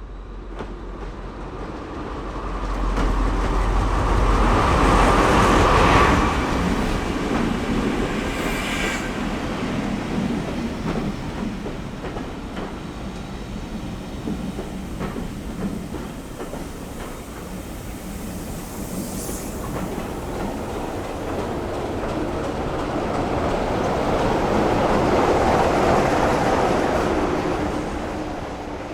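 A train running past, its wheels clattering over the rail joints. It is loudest about five seconds in, eases off, then swells again near the end.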